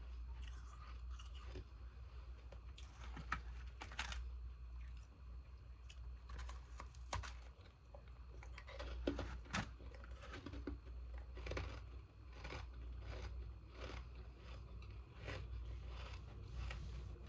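Frozen ice pieces being bitten and chewed close to the microphone: a long run of irregular crisp crunches. A steady low hum runs underneath.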